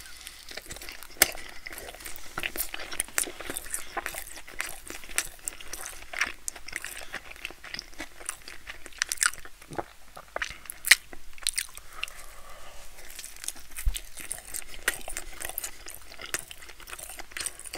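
Close-miked eating of toasted cheesy bread: a bite at the start, then chewing full of small crackles and clicks, with a few sharper crunches.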